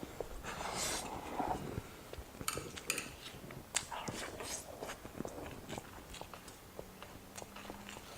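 Close-miked mukbang eating sounds: a person chewing food, with crunching bites and small wet mouth clicks at irregular intervals.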